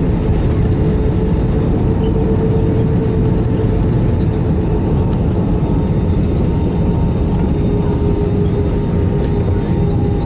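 Jet airliner cabin noise heard from inside the cabin: a steady, loud rumble of engines and airflow with a constant hum running through it.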